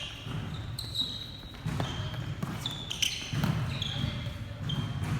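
A volleyball being struck and bouncing several times, with short high sneaker squeaks on the court floor, echoing in a large gym.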